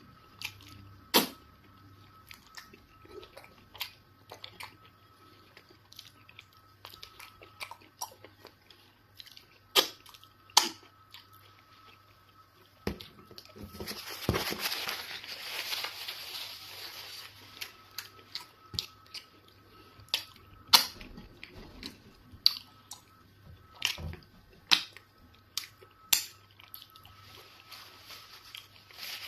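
Close-miked chewing and wet mouth sounds of a person eating eba and fufu with egusi soup, with scattered sharp smacks and clicks. A few seconds of denser, louder rustling noise come about halfway.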